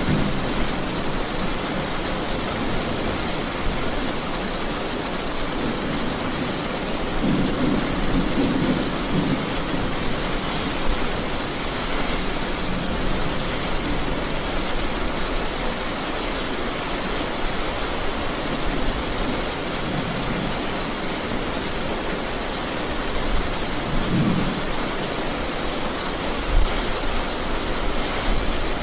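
Steady rain falling, with low rolls of thunder rumbling about a quarter of the way in and again near the end.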